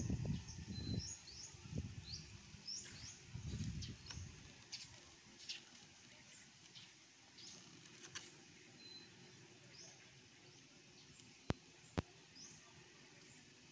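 Small birds chirping in many short, rising notes over a faint steady background. There are low rumbles in the first few seconds and two sharp clicks near the end.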